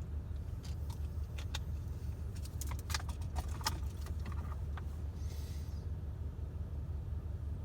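A recycling truck's engine hums steadily while a cluster of sharp clinks and rattles, like cans and bottles tipping into the hopper, sounds from about two to five seconds in. This is followed by a short hiss of air about five seconds in.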